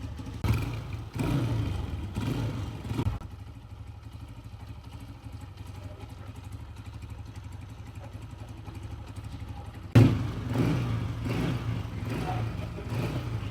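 Honda CG 125 single-cylinder four-stroke engine running after a new rocker plate was fitted and the tappets adjusted; it is much quieter than before, though it is an old engine with more than one noise. It runs louder for the first few seconds, drops to a quieter steady running, then the level jumps suddenly about ten seconds in and stays up.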